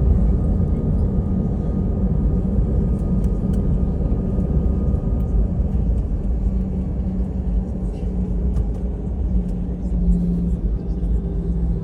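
Airbus A320-214's CFM56 engines at high thrust during departure, heard inside the cabin as a steady, heavy rumble, with a pitched hum coming in about halfway.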